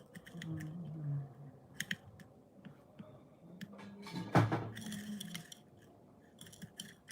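Irregular light clicks and scratchy rustling, with one louder knock about four seconds in, over a faint low murmur.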